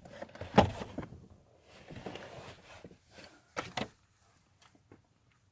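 Things being handled inside a car: a sharp knock, a stretch of rustling, then two quick knocks, followed by quiet.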